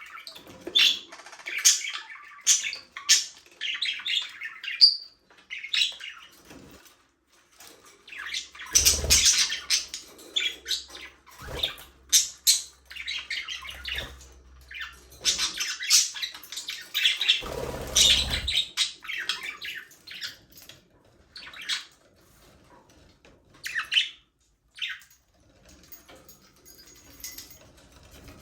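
A flock of budgerigars chattering and warbling in an aviary, with many quick high chirps coming in clusters between short pauses. Twice there is a louder rustling burst, once about a third of the way in and again a little past the middle.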